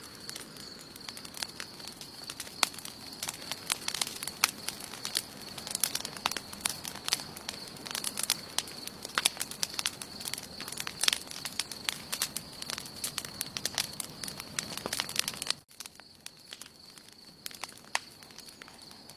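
Wood campfire crackling, with frequent sharp pops and snaps over a steady high-pitched whine. About three-quarters of the way through, the sound drops abruptly and the pops become sparse.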